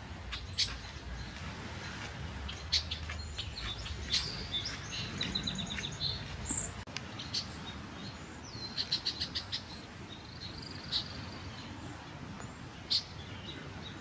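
Wild birds chirping: scattered sharp single chips and two quick trills of rapid repeated notes, one a little before the middle and one about two-thirds through. Under them is a steady low background rumble that drops out about halfway.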